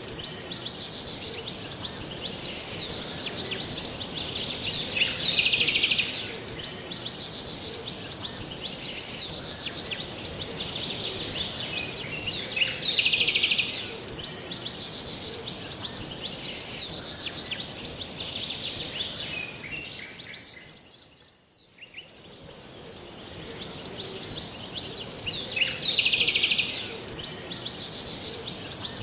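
Birds singing and chirping over a steady high hiss, with a loud, rapid trill lasting about a second that recurs every several seconds. About two-thirds of the way through, everything fades out briefly and comes back.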